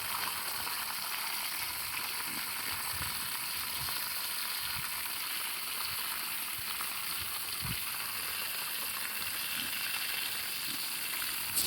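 Water from a garden hose running steadily into a watering bucket, an even hiss.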